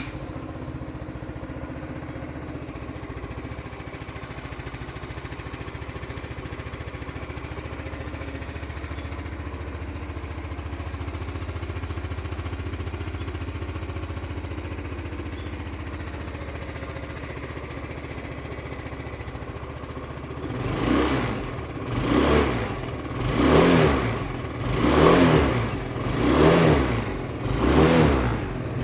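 Stock muffler exhaust of a 2016 Yamaha Cygnus X SR 125cc single-cylinder four-stroke scooter engine idling steadily just after starting. About two-thirds of the way in it is revved in six short throttle blips, each rising and falling, about one every second and a half.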